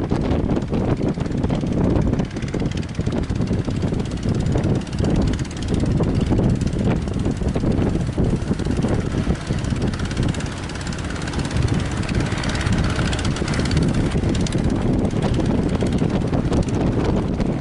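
Strong wind buffeting the microphone: a loud, steady, gusty low rumble.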